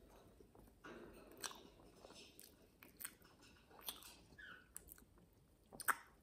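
Close-up chewing of a mouthful of lemon cheesecake: soft, wet mouth clicks and smacks scattered through, the loudest one near the end.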